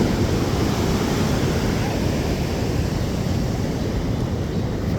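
Ocean surf breaking and washing along the shore, a steady low roar, with wind rumbling on the microphone.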